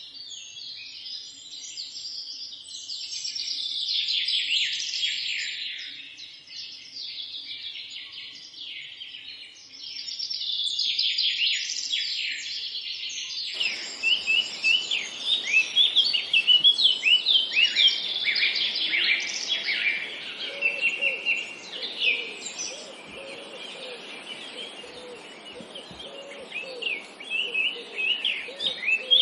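Dawn-chorus style birdsong: many songbirds singing and chirping at once in overlapping phrases. About halfway through the sound cuts abruptly to a different recording with a steady hiss underneath, rapid short chirps and a few lower calls.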